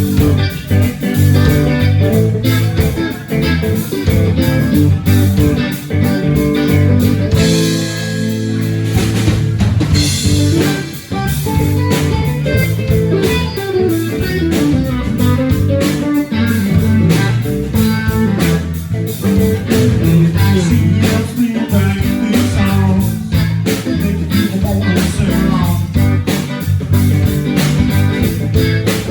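Live blues-rock band playing an instrumental passage: guitar over bass and a drum kit, with a held, ringing chord and cymbal wash about eight seconds in.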